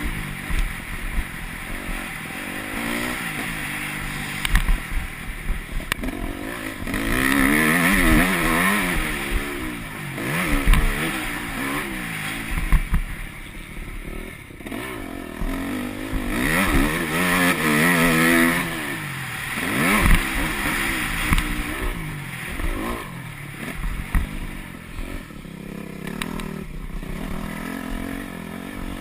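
Yamaha YZ250F single-cylinder four-stroke motocross engine being ridden hard, its pitch climbing and dropping over and over as the throttle is opened and shut. Knocks and clatter from the bike over bumps are mixed in.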